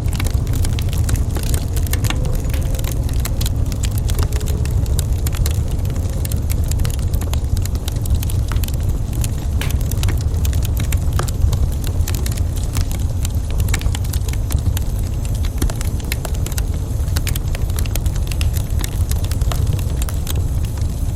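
Wood fire crackling in a fireplace: many irregular small pops and snaps over a steady low rumble of the flames.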